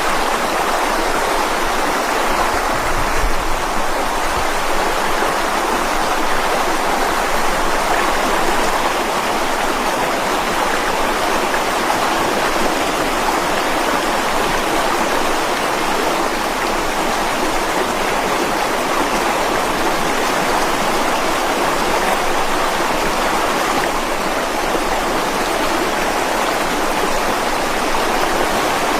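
Mountain stream flowing over rocks, a steady rushing and splashing of water that stays even throughout.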